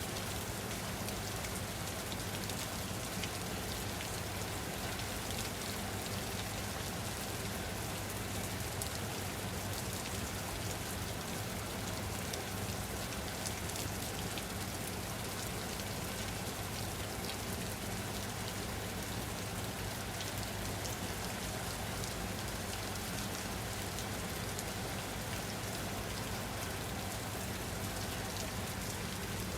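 Steady rain falling on a surface, an even hiss with fine patter of individual drops, no thunder.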